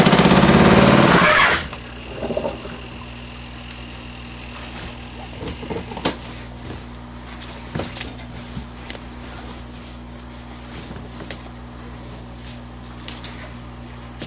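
Small spin dryer of a compact RV washing machine running loudly off balance with a rattle, stopped abruptly about a second and a half in. A steady low machine hum and scattered small knocks follow as the load is handled.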